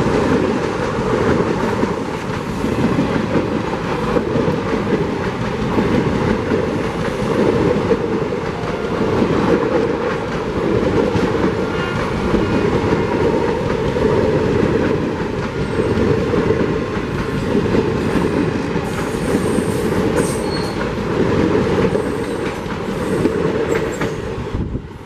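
Passenger coaches of an express train rolling past close by at speed, a loud steady rumble and clatter of wheels on the rails. It falls away shortly before the end as the last coach goes by.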